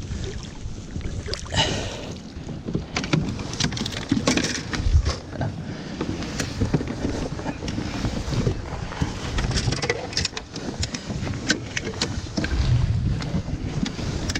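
Knocks, clicks and handling noises on a plastic kayak as a bream is landed and handled, over low wind rumble on the microphone.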